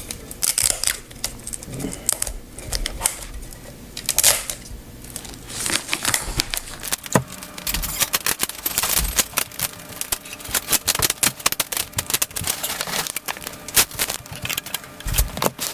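Plastic parts of a car-stereo dash-kit adapter clicking, snapping and rattling as they are handled and fitted together, in a rapid irregular run of small clicks.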